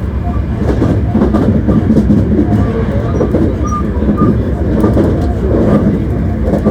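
Running noise inside a Hankyu 1300 series electric train car at speed: a steady loud rumble of wheels on rail, with scattered clicks from the track.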